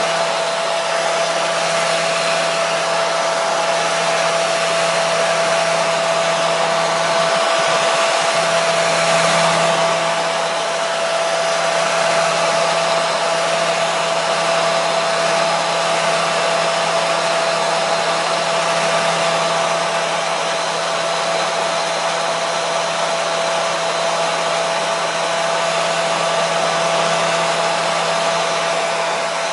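Hair dryer running continuously: a steady rush of air with a constant motor whine and low hum.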